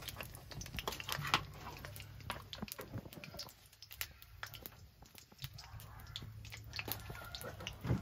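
Faint, irregular crackling and popping from chopped onions frying in oil in a wok over a wood-fired stove.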